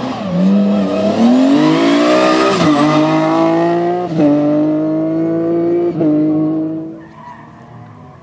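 Rally car engine at full throttle, its note climbing hard and then dropping at an upshift about two and a half seconds in. It holds near-steady with two short lifts off the throttle, then fades away as the car drives off, about a second before the end.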